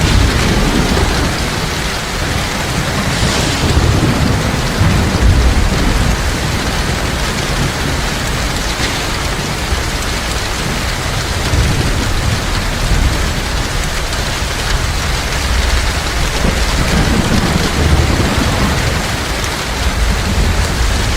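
Heavy rain pouring steadily, with low rumbling thunder that swells in the first few seconds and again near the end.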